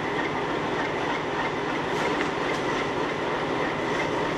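Steady mechanical running noise from a standing passenger train's machinery, with a faint high whine held over it.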